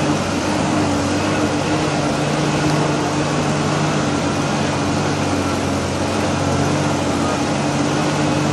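Vehicle engine running steadily as it climbs a rough dirt track, an unchanging low drone heard from inside the cab.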